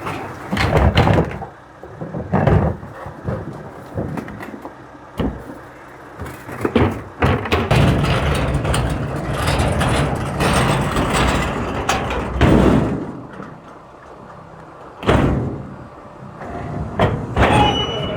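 Garbage truck running, with a string of irregular loud bangs and rattles over the rumble of its engine.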